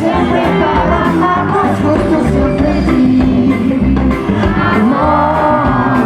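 Live reggae band playing: a lead singer's voice over bass and drums.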